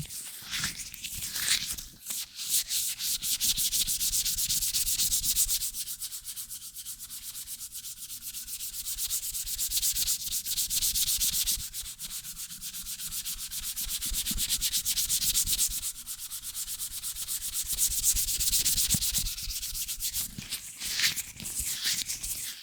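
Latex-gloved hands rubbing close on a microphone: fast, continuous rubbing strokes with a bright hiss that swell and ease in waves every few seconds.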